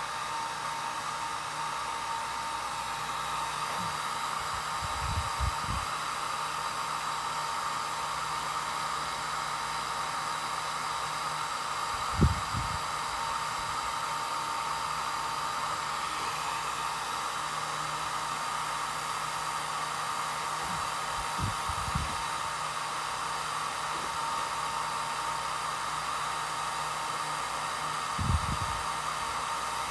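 Hot-air dryer blowing steadily, a constant whooshing hiss with a faint steady whine. A few soft low knocks sound about five seconds in, near the middle, twice around two-thirds of the way through, and near the end.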